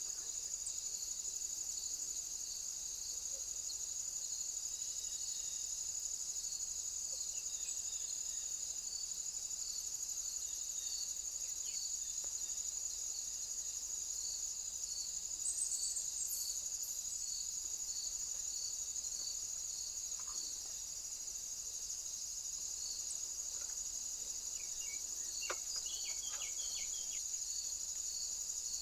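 Steady high-pitched chorus of insects, with a second insect pulsing regularly underneath. A few faint short chirps come near the end.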